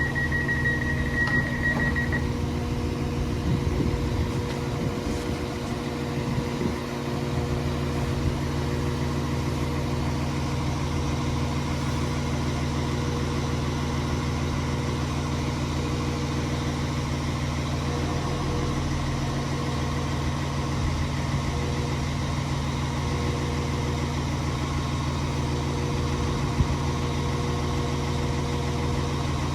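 A train standing at the platform, idling with a steady low hum made of several fixed pitches. A high steady beep sounds for the first two seconds, then cuts off.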